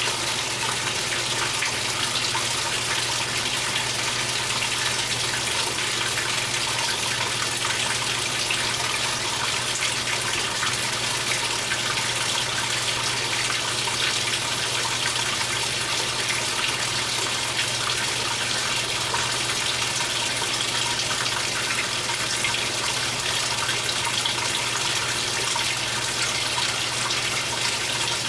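2015 Speed Queen 8 Series top-load washing machine with water gushing steadily into the tub, over a steady low hum.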